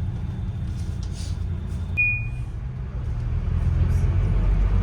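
Tour bus running along city streets: a low engine and road rumble that grows louder near the end, with a brief high-pitched squeal about two seconds in.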